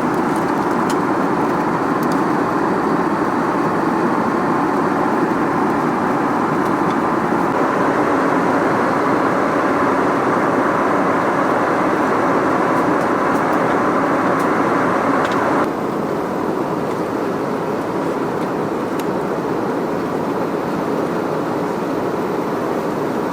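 Steady rushing cabin noise of an Airbus A320-200 in flight, from its engines and airflow. About two-thirds of the way through it drops abruptly to a slightly quieter, duller noise.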